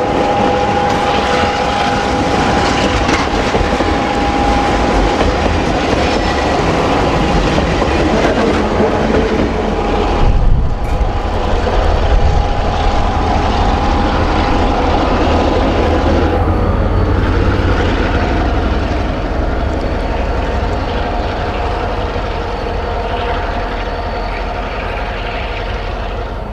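A train running on the track: a continuous loud rumble and rail noise with a few steady high tones over it. There is a sharp jolt about ten seconds in. After about sixteen seconds the tones drop lower and the sound slowly eases.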